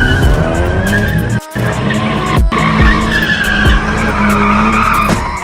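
Car tyres squealing under hard wheelspin with the engine running loud. The sound cuts out briefly twice, about a second and a half and two and a half seconds in.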